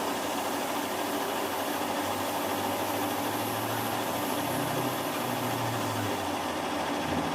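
Metalworking lathe running: a steady machine hum with several held tones, a low one coming in about two seconds in and fading out near the end.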